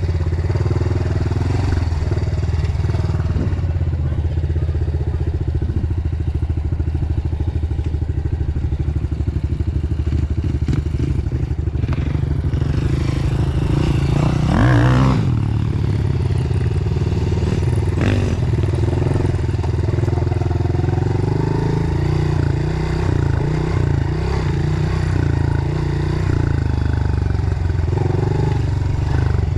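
Dirt bike engine running under way on a trail, holding a steady pitch with a brief rev about halfway through.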